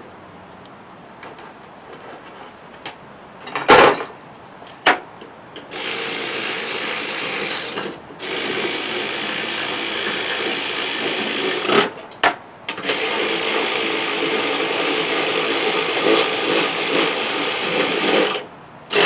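A few metal knocks, the loudest about four seconds in, then a power drill/driver running steadily in three long trigger pulls of a few seconds each, starting and stopping sharply, working fasteners on the mower deck.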